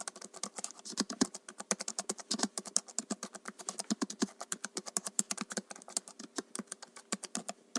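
Computer keyboard typing: a quick, even run of key clicks, about ten strokes a second.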